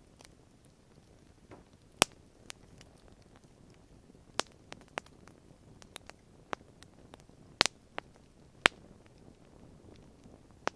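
Wood fire crackling, with irregular sharp pops and snaps, the loudest about two seconds in and twice near eight seconds, over a faint steady hiss.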